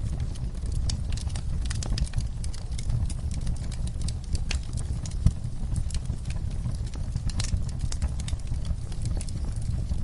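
Wood fire in a fireplace crackling, with many irregular sharp pops over a steady low rumble, mixed with soft rainfall.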